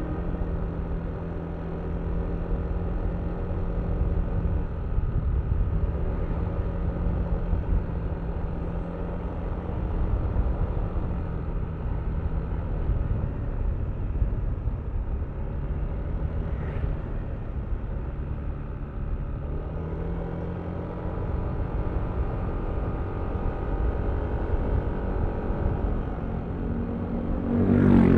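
Yamaha Aerox V3 scooter's 155 cc single-cylinder engine running under way, with wind rumble on the microphone. Its pitch drops about two-thirds of the way through and climbs again, and a louder swell of vehicle sound comes near the end.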